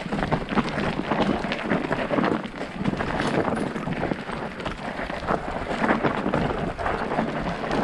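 Mountain bike rolling over a rough, stony trail: tyres crunching on loose rock and the bike rattling in a dense, irregular clatter.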